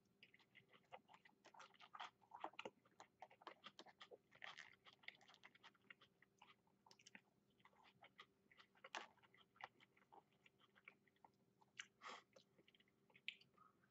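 A man chewing Chinese takeout food, faint, with scattered small clicks and crunches.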